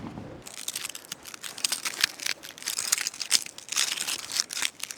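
Nylon camping gear crinkling and rustling in quick, irregular crackles as it is handled and stuffed away during packing up.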